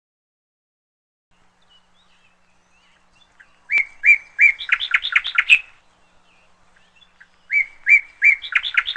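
Near silence for about three seconds. Then a songbird sings the same phrase twice, a couple of seconds apart: a few level notes running into a quick series of rising and falling notes.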